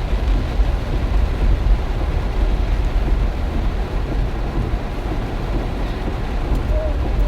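Heavy rain and strong wind, the gusts hitting the microphone as a steady low rumble under the hiss of the rain. A brief thin tone sounds near the end.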